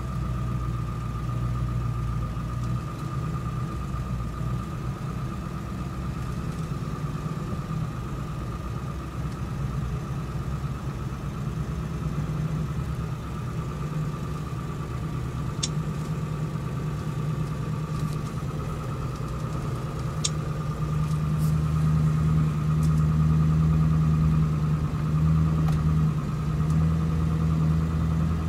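Vehicle engine and road noise heard from inside the cab while driving, a steady low hum with a faint steady whine above it. It grows a little louder from about two-thirds of the way in, and there are a couple of faint clicks in the middle.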